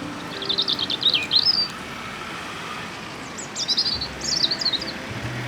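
A small songbird singing two quick high trilled phrases, a few seconds apart, over a faint steady outdoor hiss.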